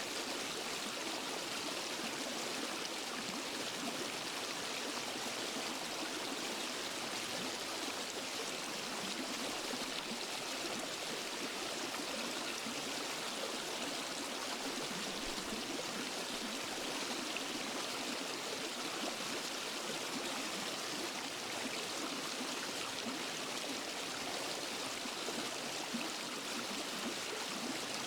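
Waterfall and forest stream: water rushing and splashing steadily, an even hiss heaviest in the upper range.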